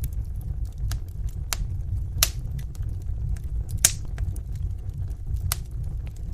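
Wood fire burning in a fireplace: a steady low rumble with scattered sharp crackles and pops, the two loudest pops about two and four seconds in.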